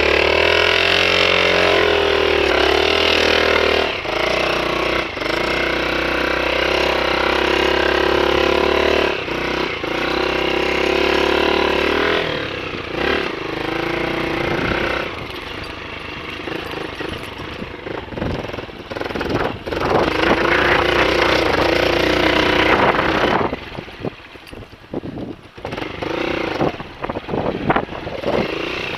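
Honda XLR125 dirt bike's single-cylinder four-stroke engine running and being revved. Its pitch rises and falls, then holds steady for several seconds, picks up again later, and drops off sharply near the end, leaving only a few uneven bursts.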